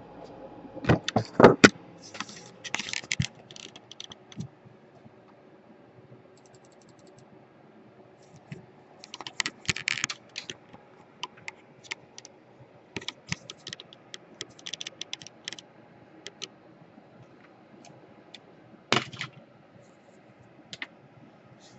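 Irregular clicks, taps and light rattles of small plastic and metal laptop parts being handled and fitted during a repair, in scattered bursts.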